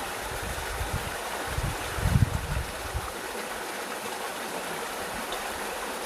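Stream water running steadily, with a low rumbling thump about two seconds in.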